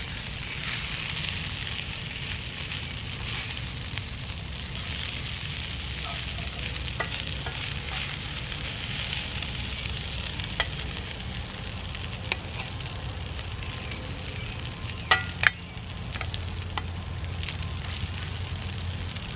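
Vegetables, beans and rice frying in a cast iron pan over a campfire: a steady sizzle. A few sharp clicks cut through it, loudest about fifteen seconds in.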